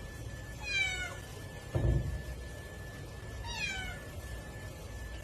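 A domestic cat meowing twice, each a short meow falling slightly in pitch, with a dull thump between them.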